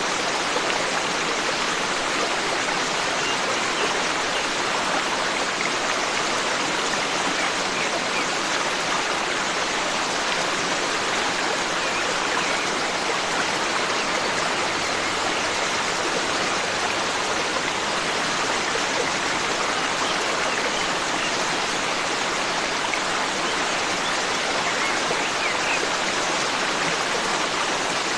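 A forest stream rushing and burbling steadily over rocks, with a few faint high bird chirps now and then.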